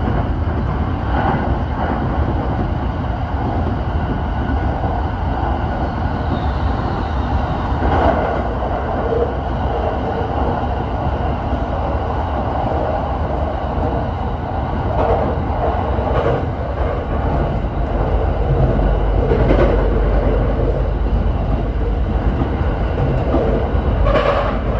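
Tokyo Waterfront Area Rapid Transit 70-000 series electric train running at speed, heard from inside the driver's cab: a steady rolling noise with occasional clicks.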